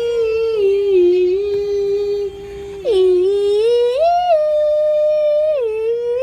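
Dog howling: long, drawn-out held notes that step down and back up in pitch several times.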